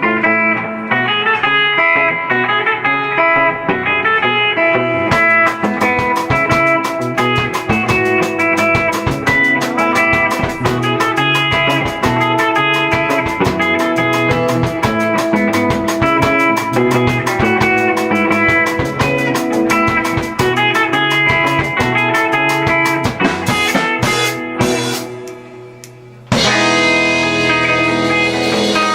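Rock band playing live, with electric guitar over a drum kit; the drums come in about five seconds in. Near the end the music thins and drops, then cuts back in abruptly at full level.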